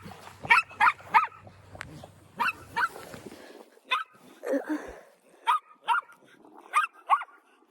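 A dog barking repeatedly: about a dozen short, sharp barks at irregular intervals.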